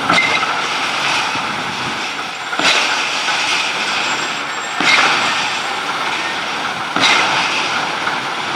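Truck running, with a steady noise that surges sharply about every two seconds.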